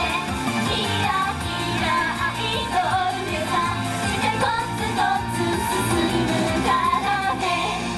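J-pop idol song performed live: female voices singing over a pop backing track with steady bass.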